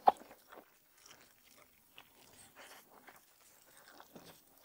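A person chewing and gnawing braised oxtail meat off the bone, close to a clip-on microphone. There is one sharp mouth sound just after the start, then faint, irregular wet chewing and smacking noises.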